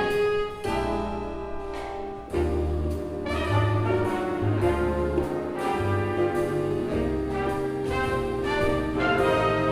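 A youth jazz big band playing a swing chart: trumpets, trombones and saxophones sounding full chords over bass and drums. The band eases off briefly about two seconds in, then comes back in with a sharp ensemble accent.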